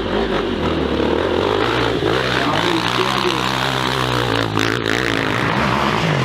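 Dirt bike engine revving, its pitch rising and falling as the throttle is worked.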